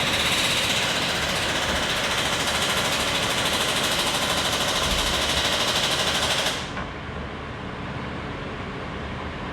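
Jaguar XJ8 engine being cranked by its starter motor: a loud, fast rhythmic whirr that stops abruptly about six and a half seconds in, leaving a lower steady hum. The car has a no-start fault.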